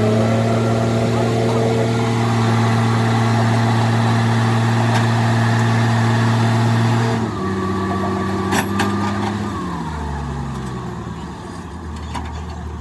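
An engine running steadily at a raised speed. A little after seven seconds it drops back, and near ten seconds it slows with a falling pitch to a lower idle. A single sharp metallic click comes between these two changes.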